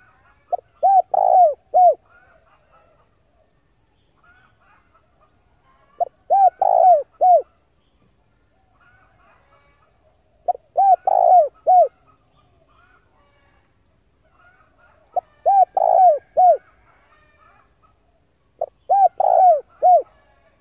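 Male spotted dove cooing: five phrases of four or five low notes each, repeated about every four and a half seconds.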